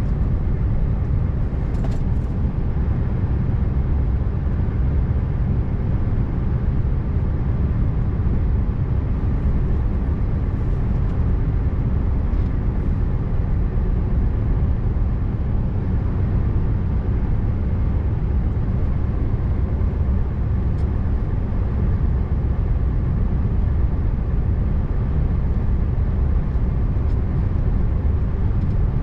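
Scania R590's V8 diesel engine running steadily under way, with tyre and road noise, in an even, unchanging low drone.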